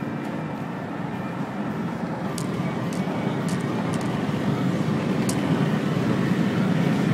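BMW 535i E60's twin-turbo 3.0-litre straight-six pulling hard under full acceleration, engine and road noise rising steadily in loudness as speed builds. A few faint clicks sound over it.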